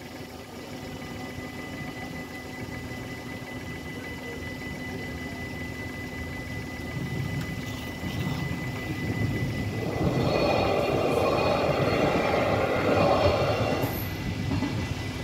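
Electric Stadler GTW train passing over a level crossing, its wheel and running noise swelling to its loudest about 10 seconds in and falling away about 14 seconds in. Underneath, the crossing's warning bells keep up a steady high ringing.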